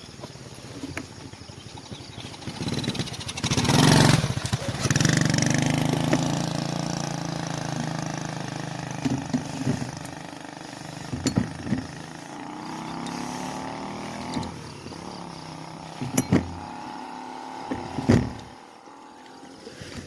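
A motor vehicle's engine passing close by: it grows louder to a peak about four seconds in, then runs on steadily and fades over the next ten seconds. A few short knocks or clicks near the end.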